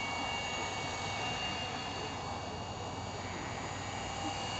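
Electric RC helicopter, a Compass Atom 500 in a Bell 206 Jet Ranger scale body, in flight: a steady whine from the electric motor and gear drive over the even rush of the rotor blades.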